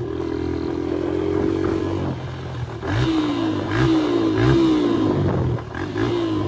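140 cc single-cylinder dirt bike engine running under a rider. It holds a steady pitch for about two seconds, then revs up and drops back several times in quick succession, with a short dip about two-thirds of the way in, as the bike is ridden over dirt.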